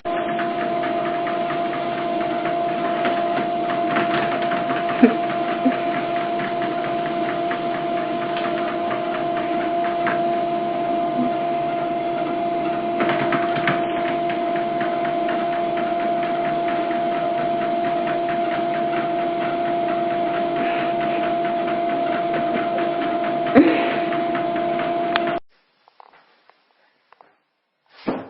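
Steady machine hum with a constant low tone and a few faint clicks, cutting off abruptly about 25 seconds in.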